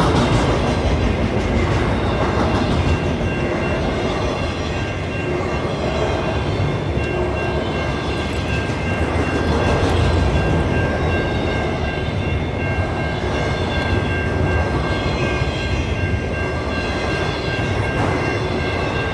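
Cars of a CN freight train rolling past: a steady rumble of steel wheels on rail with some clickety-clack, and a faint steady high whine running through it.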